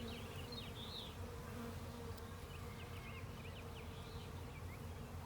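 A mass of honeybees buzzing in a steady hum around a bee package and open hive.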